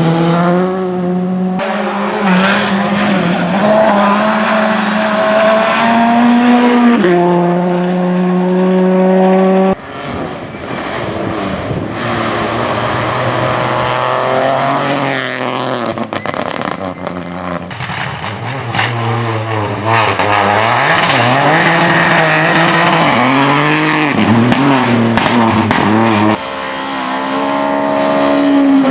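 Rally car engines at full throttle on a special stage, revving hard and shifting quickly through the gears. In the middle stretch there are repeated sharp lifts and blips of the throttle through corners. The sound cuts abruptly from one car to another twice.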